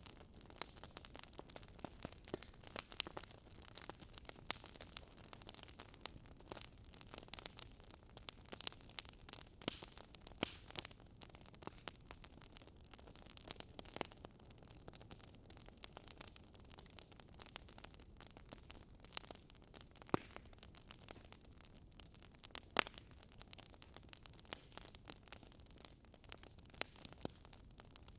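Fireplace fire crackling: irregular sharp pops and snaps over a faint steady hiss, with a few louder snaps scattered through.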